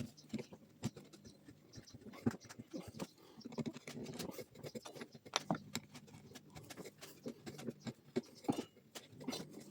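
Irregular light clicks, taps and scratchy scraping of hand tools and small metal parts being handled against a wooden tool handle, with no steady machine running.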